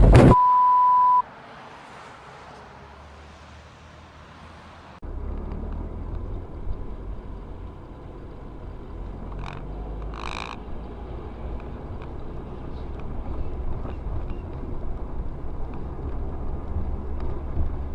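A sudden loud noise at the very start, then a steady high beep about a second long. A few seconds later a steady low vehicle rumble cuts in and runs on, with a couple of brief knocks near the middle.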